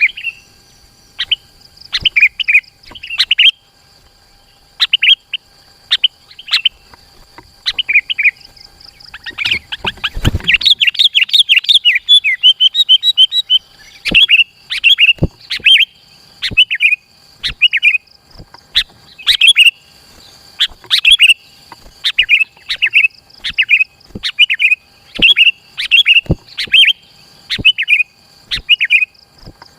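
Sooty-headed bulbul (kutilang) singing vigorously: short, loud chirping phrases repeated about once a second, with a rapid run of quick notes from about ten seconds in lasting a few seconds. A faint steady high whine runs underneath.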